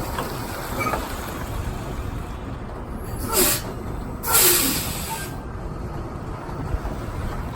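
A semi truck's diesel engine runs steadily. About halfway through, its air brakes let out two loud hisses of air, a short one and then a longer one.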